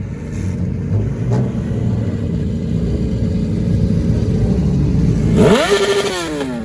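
Car engine rumbling at low revs, then revved hard about five seconds in: the pitch climbs quickly, holds a moment and falls back.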